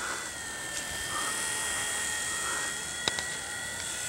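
V911 micro RC toy helicopter's electric motors and rotors running in flight: a steady high-pitched whine that drifts slightly in pitch. A sharp click about three seconds in.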